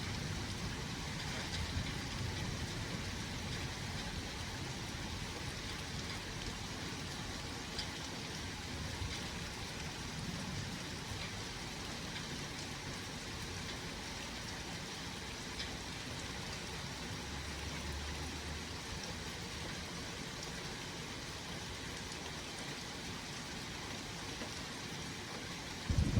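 Steady rain falling during a thunderstorm, an even hiss recorded through an old phone's microphone.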